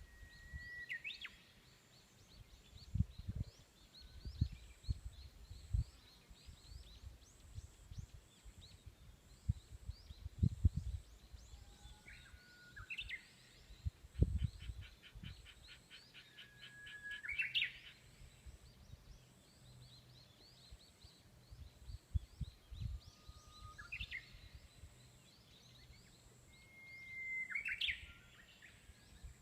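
Wild songbirds singing in mountain forest: one loud bird repeats a song of a long, held whistled note that breaks into a quick rising flourish, once with a fast run of repeated notes before it, over fainter high chirping from other birds. Low thumps come and go underneath.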